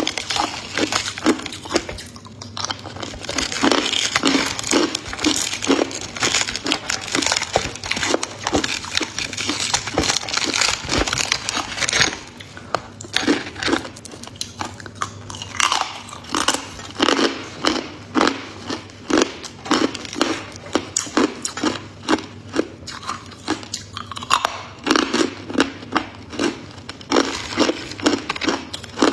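Ice being bitten and chewed close to the microphone: a dense run of sharp crunches and cracks that carries on throughout, with a few short lulls.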